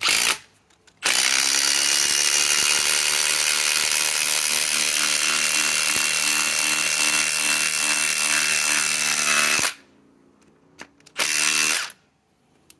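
Milwaukee M18 Fuel Gen 4 impact driver hammering a 5 or 6-inch lag screw into a pre-drilled hole. It runs for one long stretch of about eight and a half seconds, with a short blip of the tool at the start and another near the end.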